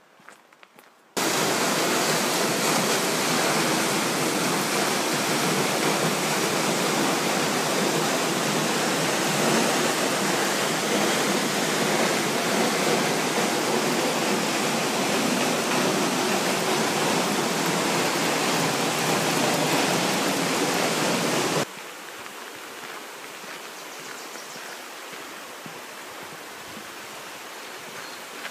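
Waterfall's steady rush of falling water. It cuts in suddenly about a second in and drops abruptly to a much quieter rush of water about 22 seconds in.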